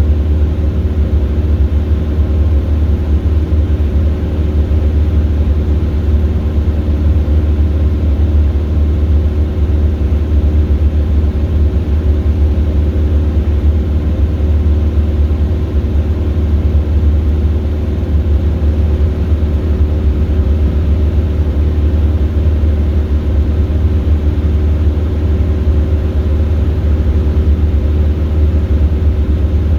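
Robin DR400 light aircraft's four-cylinder piston engine and propeller, a steady low drone.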